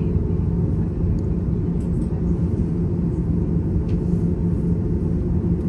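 Steady low rumble and hum of an airliner's jet engines and airframe, heard from inside the passenger cabin.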